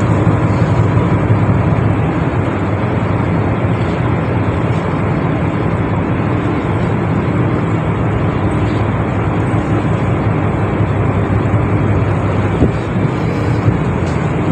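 Ship's engine running steadily, a low droning hum under an even rushing noise.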